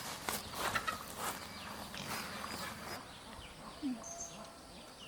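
Crackling and rustling, many sharp snaps in the first three seconds, then a sudden drop to quieter surroundings with short falling chirps and a brief low cluck from birds.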